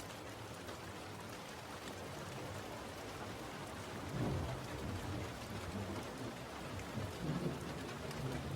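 Steady rain falling, with a low rumble of thunder swelling about four seconds in and again near the end.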